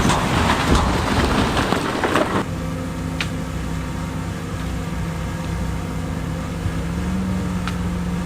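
Rough clattering noise with sharp knocks for about two and a half seconds, then an abrupt change to a heavy diesel engine of earthmoving equipment running steadily. Its pitch rises slightly near the end.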